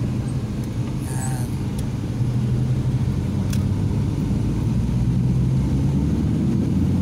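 Car engine running under way with road rumble, heard from inside the cabin. It gets a little louder about two seconds in.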